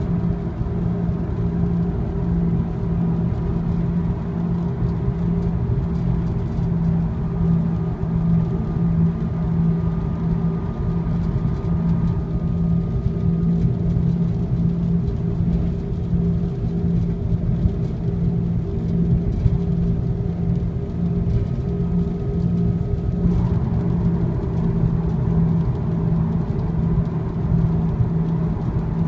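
Subaru WRX STI (GRB) driving at speed: a steady, evenly pulsing low hum under road noise. This is a rubbing noise that comes in only above about 60 km/h and grows with speed, cause unknown. A faint higher whine joins about a quarter of the way in and stops about three-quarters through.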